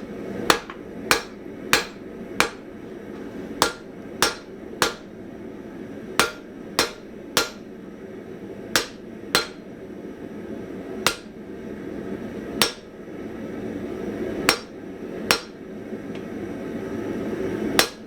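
Blacksmith's hand hammer striking spring steel on the anvil while forging: about seventeen sharp ringing blows, mostly in quick pairs and threes with short pauses between, over a steady low rush.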